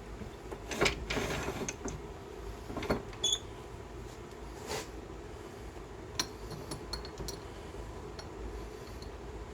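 Small handling noises at a workbench: scattered light clicks and knocks, a brief rustle or scrape about a second in, and a small ringing clink a little past three seconds, over a steady low hum.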